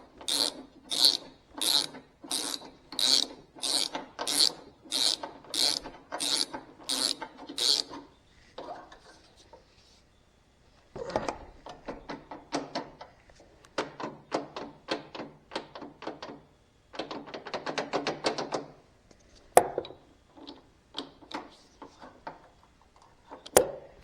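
Hand ratchet wrench clicking as a bolt is cranked down, in even strokes about two a second at first. After a short pause it goes in shorter, quicker runs of clicks, with two sharp clicks later on.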